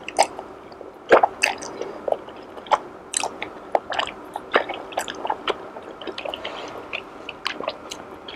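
A person chewing a mouthful of jelly noodles close to the microphone: irregular mouth clicks and smacks, a few a second.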